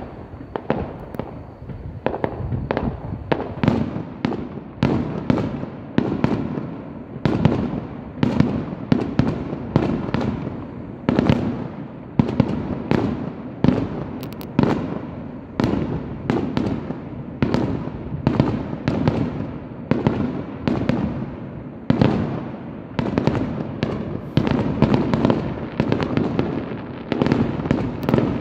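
Aerial firework shells bursting in a continuous barrage, a sharp boom about once or twice a second, each trailing off in an echo.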